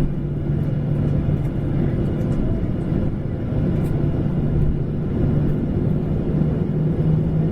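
Boeing airliner heard from inside the cabin, engines running with a steady low rumble and hum; the hum rises a little in pitch near the end.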